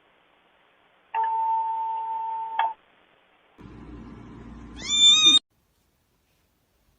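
A steady electronic-sounding tone held at one pitch for about a second and a half. After a short pause comes a low rumble, then a loud cat meow that rises in pitch and cuts off about five and a half seconds in.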